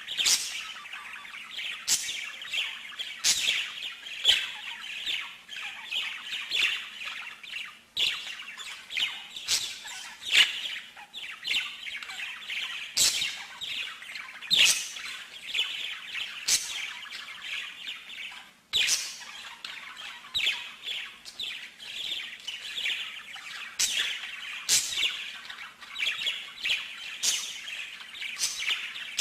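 A songbird singing continuously: rapid chirps and trills broken by sharp, clicking notes.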